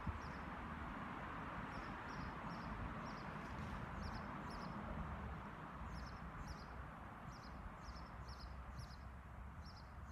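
A bird chirping over and over, short high chirps about two or three a second from about two seconds in, over a steady outdoor background hiss.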